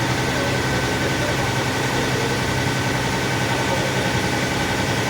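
An engine running at a steady speed: a constant low drone with a fixed, thin whine above it.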